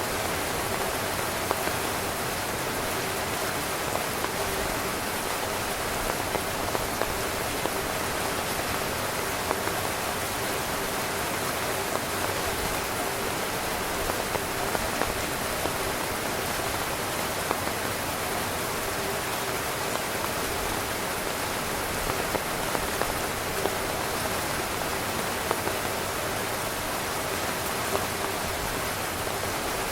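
Steady heavy rain drumming on a tent's fabric, a dense even patter with individual drops ticking now and then.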